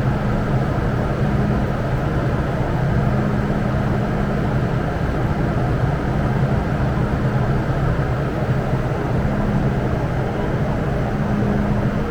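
Steady rumble of an MTR M-train metro train running, with a low hum that fades in and out every second or two.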